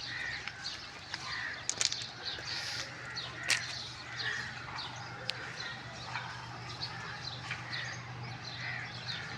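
Many birds chirping and calling over a steady low hum, with a couple of sharp clicks.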